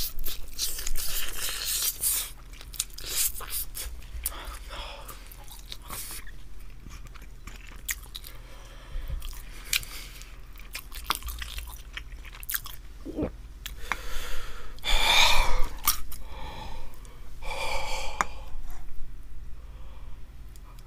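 Close-miked mouth sounds of a person biting and chewing spicy grilled chicken wings: wet smacking chews with small crunches, a few louder stretches in the second half.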